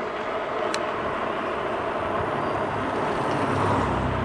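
Electric bike rolling along wet pavement: steady tyre hiss and wind noise, with one faint click about a second in and a low hum building near the end.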